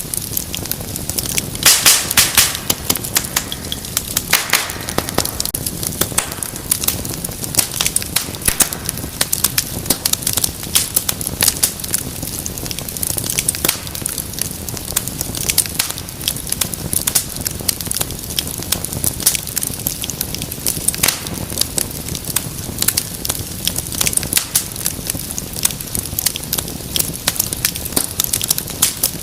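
Wood fire crackling steadily, with dense snaps and pops over a soft hiss of flames, and a brief flurry of louder pops about two seconds in.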